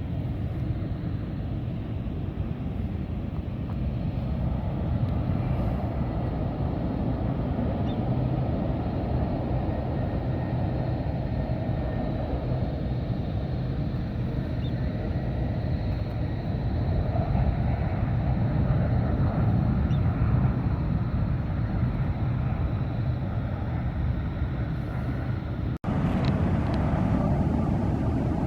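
Low, steady rumble of a British Airways Airbus A380's four jet engines as the airliner comes in to land, swelling about two-thirds of the way through. A brief sudden dropout comes near the end.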